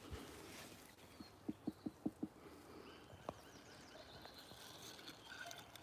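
A quick run of five soft taps about a second and a half in, then one more tap, over a faint background.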